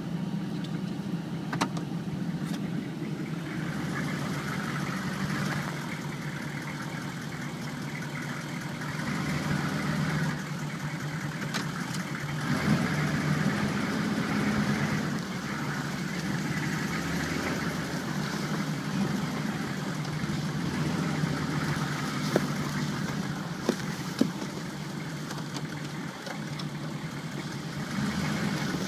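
A vehicle's engine running steadily, heard from inside the cab as a low hum, with a few faint clicks.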